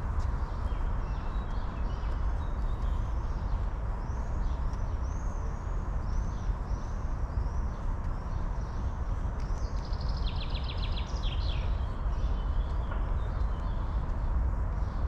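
Songbirds calling in the park trees: a run of short, arching chirps repeated a few times a second, then a fast trill about ten seconds in. All of it sits over a steady low rumble.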